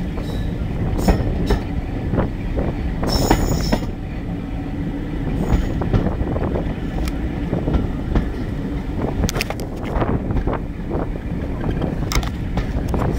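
2-EPB electric multiple unit under way, heard from on board: a steady rumble of wheels on track with frequent knocks and clicks over rail joints, and brief high-pitched wheel squeals about three seconds in and again later.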